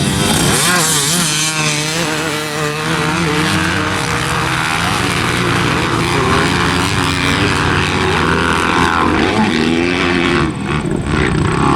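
Several motocross dirt bike engines revving hard at once, their pitches climbing and dropping through gear changes, over a steady rushing noise.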